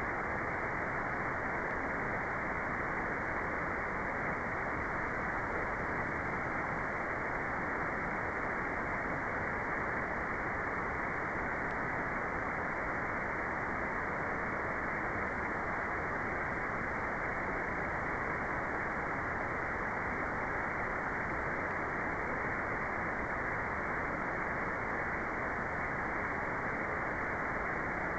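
Generated white noise for meditation: a steady, even hiss with its treble sharply cut off, leaving a dull, muffled rush that never changes.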